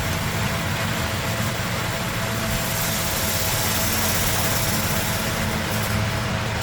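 A steady low mechanical hum with a thin steady tone above it, like a motor running.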